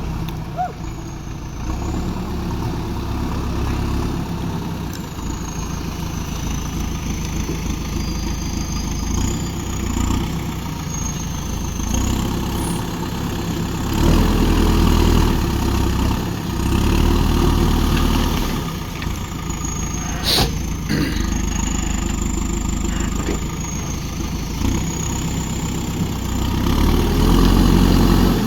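JCB backhoe loader's diesel engine running, swelling louder several times as it takes up work, with a sharp clank a little past the middle.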